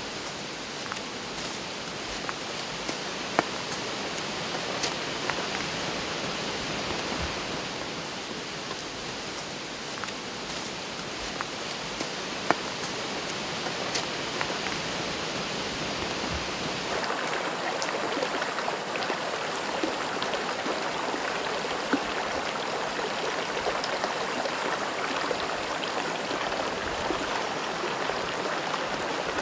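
Shallow stream running over stones, a steady rush of water that grows a little louder about halfway through, with a few sharp taps now and then.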